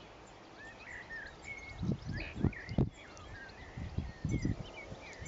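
Small birds chirping and twittering in the background, short high calls scattered throughout. A few dull low thumps come in the middle, about two to three seconds in and again around four seconds in.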